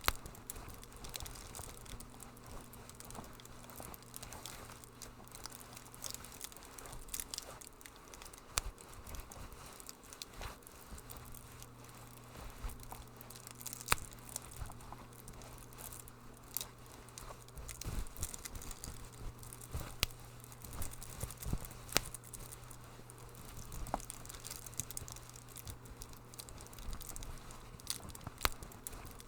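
Wood fire crackling in a fireplace, with irregular sharp pops and snaps scattered throughout over a low steady hum.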